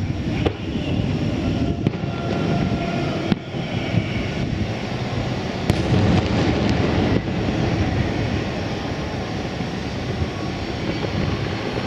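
Aerial fireworks shells bursting far off: a continuous low, rolling rumble of overlapping booms, broken by a few sharp cracks.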